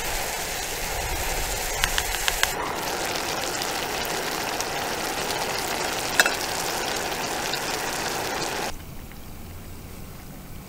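Food sizzling as it fries in a pan, with a few quick clicks of a utensil against the pan about two seconds in and one more a little past six seconds. The sizzle cuts off abruptly near the end, leaving a quieter hiss.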